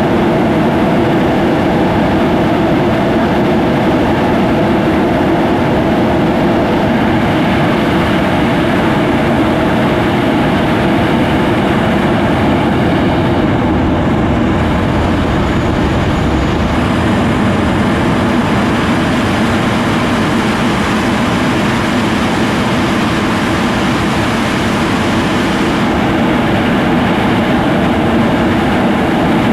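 English Electric Lightning F6's twin Rolls-Royce Avon turbojets running loud and steady at high power, an unbroken jet roar.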